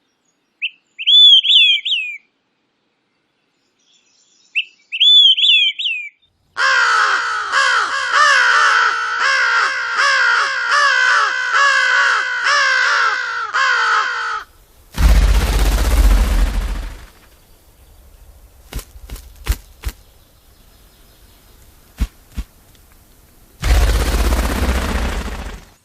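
A sequence of bird calls: two short whistled phrases, then a long run of fast, repeated calls heavy with overtones lasting about eight seconds. After it come two bursts of rushing noise a few seconds apart, with a handful of sharp clicks between them.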